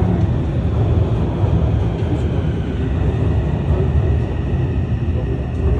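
Taipei Metro Red Line (Tamsui–Xinyi line) train pulling into the platform, with a steady low rumble.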